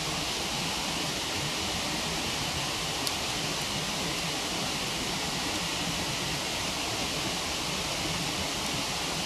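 Steady rushing of a waterfall, with a wood campfire giving a single sharp crackle about three seconds in and a fainter pop just after.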